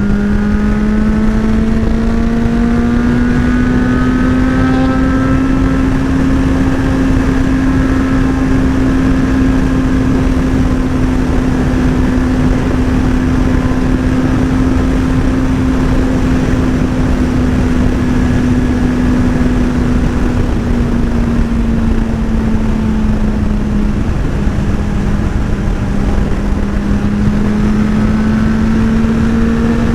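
Motorcycle engine held at steady cruising revs while riding, with a constant rush of wind noise; the revs ease off slightly about two-thirds of the way through.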